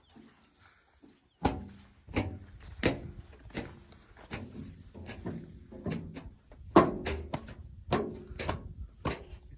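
A series of sharp knocks, each with a short ringing tail, coming roughly once a second and starting about a second and a half in.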